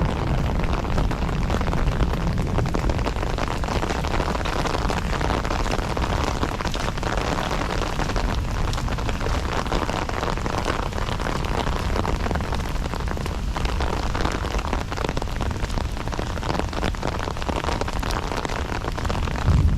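Heavy rain falling steadily, a dense patter of drops over a low rumble.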